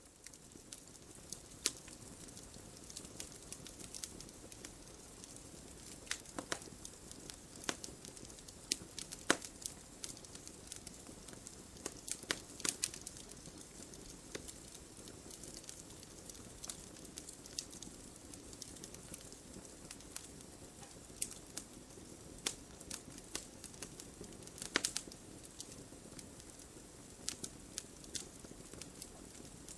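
Wood fire in a fireplace burning with a steady soft hiss, and irregular sharp crackles and pops from the burning logs.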